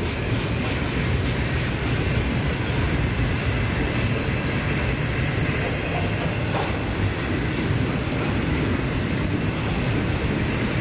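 N scale model maintenance-of-way train running past on the layout, a steady train sound with a low rumble and faint ticks.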